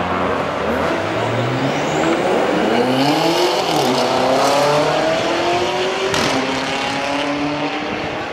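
BMW X6 M safety car's twin-turbo V8 through an Akrapovič exhaust, pulling away and accelerating, its note rising in pitch through the revs. It then settles to a steadier pitch as the car drives off.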